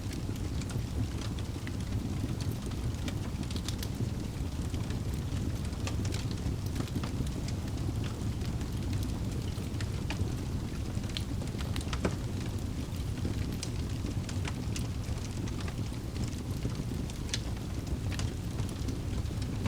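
Wood fire burning in a fireplace: a steady low rumble of flames with frequent sharp crackles and pops from the burning logs, one louder pop about twelve seconds in.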